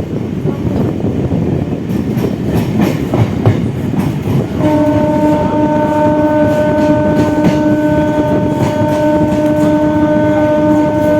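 Electric suburban local train heard from on board, running at speed, its wheels clicking over rail joints. About four and a half seconds in, a train horn starts one long, steady blast.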